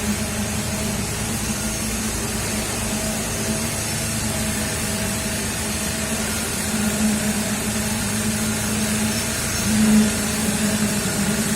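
Putzmeister concrete pump truck running steadily while pumping, its engine and hydraulic pump giving a continuous hum that swells now and then, loudest about ten seconds in.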